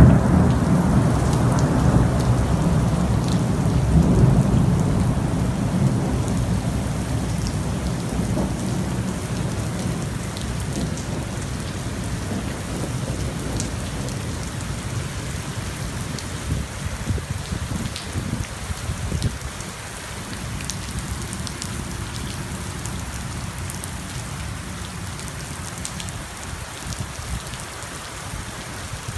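Hail and heavy rain coming down hard, with a deep rumble that is loudest at the start and gradually eases off, and scattered sharp ticks throughout.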